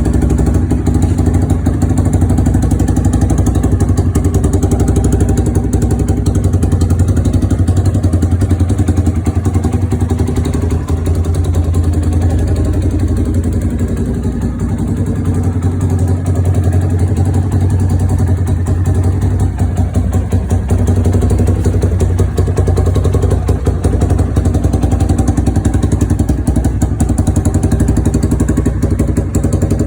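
Honda CRF230 dirt bike's single-cylinder four-stroke engine idling steadily, with slight rises and falls in engine speed.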